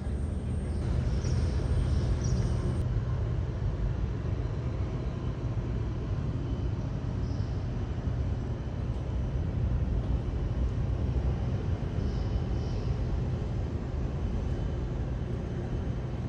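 Airbus A320neo jet engines heard from a distance: a steady low rumble of jet noise without breaks.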